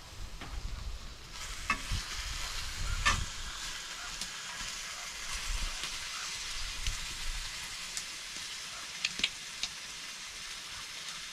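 Steak frying over a campfire: a steady sizzling hiss with scattered sharp pops and crackles. The hiss grows fuller about a second in.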